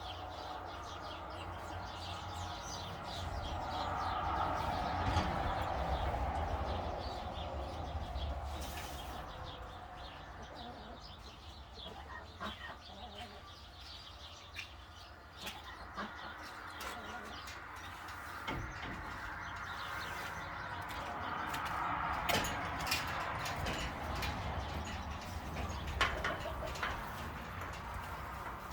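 Large flock of birds chattering and calling together, the din swelling twice and dying down between, over a steady low rumble.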